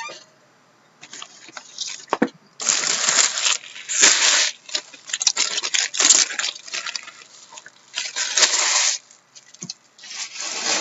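Packaging of a trading-card box being torn open: plastic wrap and wrappers crinkling and ripping in repeated bursts of rustling.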